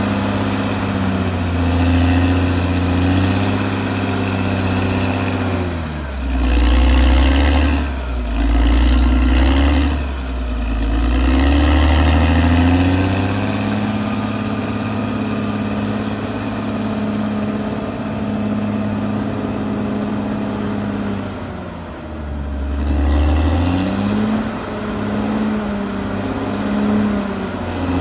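Caterpillar D6R XL bulldozer's diesel engine running under changing load, its pitch dropping as it lugs down about six seconds in and again a little after twenty seconds, then climbing back each time.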